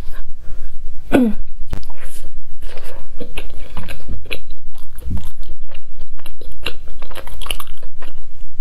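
Close-miked biting and chewing of a soft sandwich bread filled with sticky purple rice: a dense run of short wet mouth clicks and pops.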